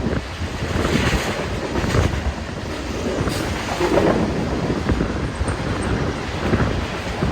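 Wind buffeting the microphone over the rumble of a passing train, a rough, irregular noise that swells and eases.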